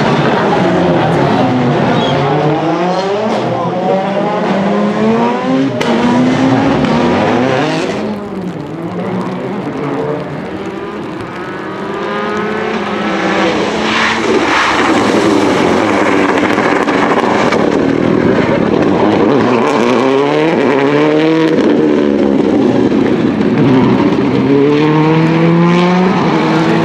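Rally car engines revving hard, the pitch climbing and dropping again and again through gear changes and lifts off the throttle. The sound is quieter for a few seconds about eight to twelve seconds in.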